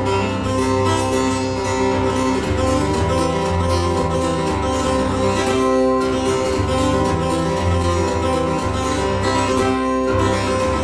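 Acoustic guitar played live, an instrumental passage of ringing sustained notes over a steady, pulsing bass line.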